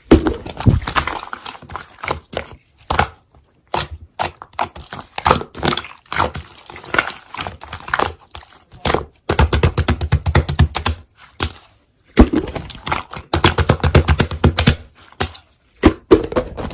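Slime being squeezed and pressed by hand: rapid crackling clicks and pops, with heavier, lower squelching stretches in the middle and near the end.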